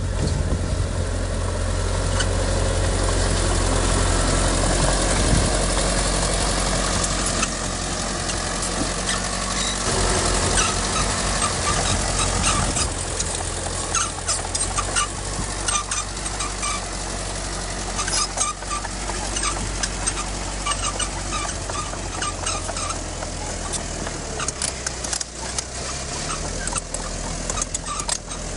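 Diesel engine of heavy earthmoving machinery running steadily. Its low note drops about ten seconds in, and after that many sharp clicks and rattles of metal and material sound over it.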